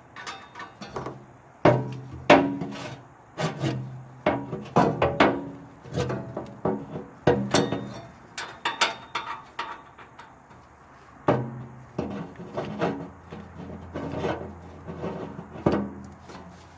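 Hand-lever grease gun being worked on the auger shaft's grease zerk: irregular clicks and clanks of the lever and fitting, with rubbing and short squeaky rings, about a dozen over several seconds.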